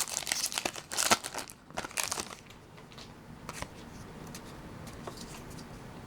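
Foil booster-pack wrapper crinkling as it is handled and torn open, busy for about the first two seconds. After that come only a few faint rustles and clicks.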